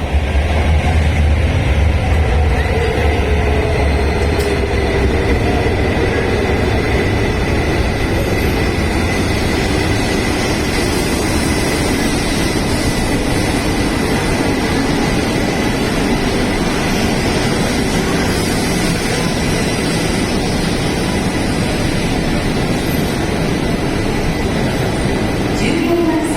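JR electric train running at a station platform: a steady rumble that is heaviest for about the first ten seconds, with a motor whine that slowly falls in pitch over that time.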